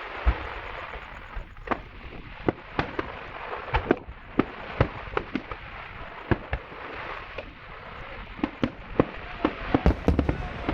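Fireworks display: a fast, irregular string of sharp bangs, dozens of them, over a steady hiss, with the loudest cluster of bangs near the end.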